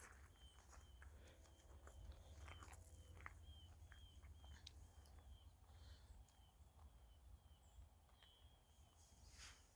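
Near silence: quiet outdoor ambience with faint high chirps repeating about twice a second over a low rumble.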